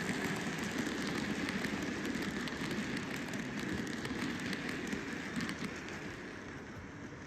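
N gauge model train running along the track: a steady rattling whir from the small motor and wheels, speckled with many fine clicks, growing gradually quieter near the end.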